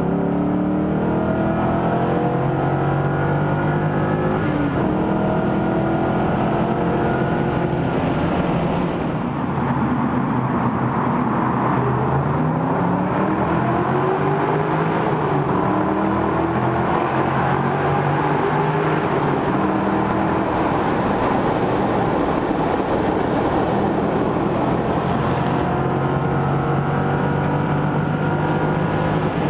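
BMW Z8's 4.9-litre V8 running hard at speed, its note climbing again and again and dropping back between gears, over steady road and wind noise.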